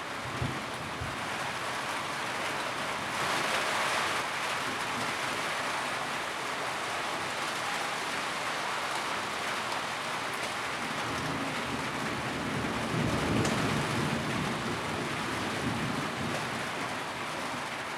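Steady rain drumming on a tin roof, swelling louder for a moment twice, with a couple of brief low thumps near the start.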